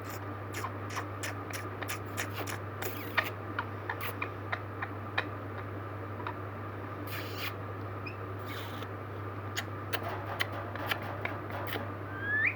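Indian ringneck parrot's beak making sharp irregular clicks with a few short scrapes, ending with the start of a short rising call.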